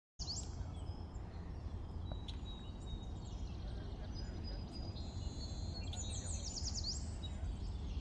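Birds chirping over a steady low outdoor rumble, with a quick run of falling chirps near the end.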